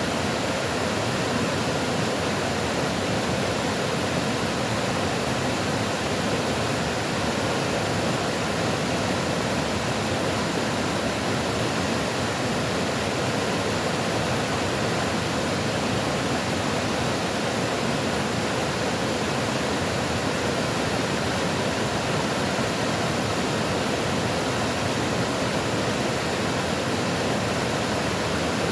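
Running water rushing steadily, an even unbroken noise.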